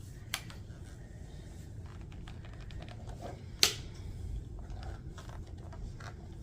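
Light plastic clicks and knocks as the parts of a handheld mattress vacuum are handled, likely its dust container and filter. About three and a half seconds in comes one sharp snap.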